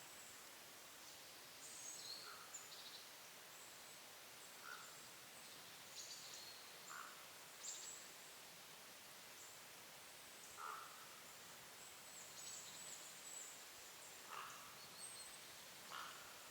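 Faint, scattered short calls of small woodland birds: high, thin notes every second or two, with a few lower short notes among them, over a quiet forest hiss.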